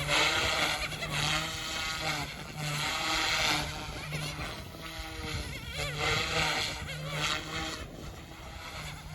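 OMP Hobby M2 Evo electric RC helicopter in flight: its motor and rotor whine, with the pitch swinging up and down as the throttle and manoeuvres change. Wind rumbles on the microphone underneath.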